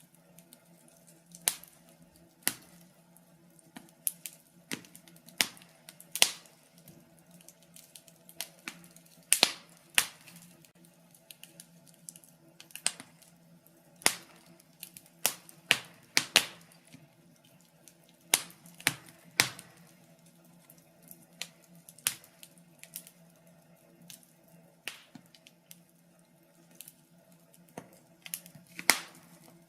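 Wood fire crackling in a fireplace: sharp pops and snaps at irregular intervals, a few to several every couple of seconds, over a faint low steady hum.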